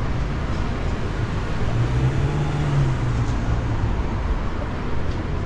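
Downtown street traffic: a steady low rumble of road vehicles, with one engine swelling louder and slightly higher about two seconds in as it passes.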